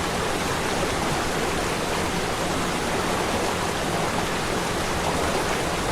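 Steady rushing of a waterfall, an even wash of falling water with no changes.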